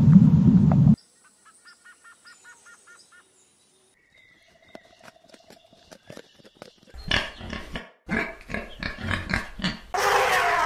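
A run of different animal calls. A loud low rumble cuts off about a second in, faint regular chirping follows, then from about two-thirds of the way through comes a rapid series of clicky chattering calls, and near the end a loud harsh call begins.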